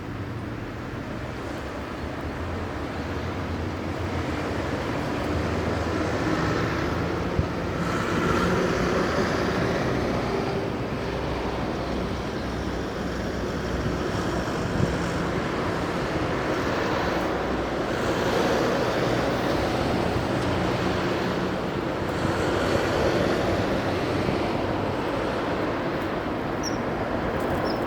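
Steady rumble of road traffic, swelling now and then as vehicles pass, with two brief clicks.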